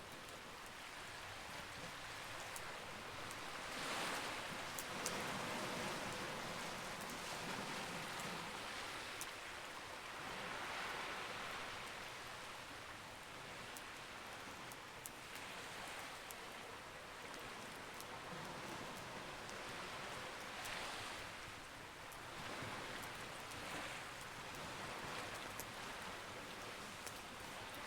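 Wood fire crackling, with sharp pops every few seconds, over a steady wash of sea waves that swells and fades.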